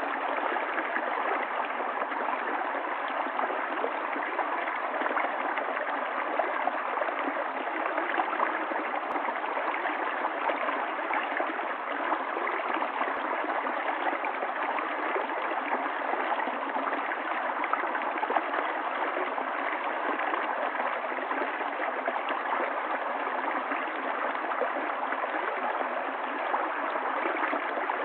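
Running water of a stream, flowing steadily and evenly without a break.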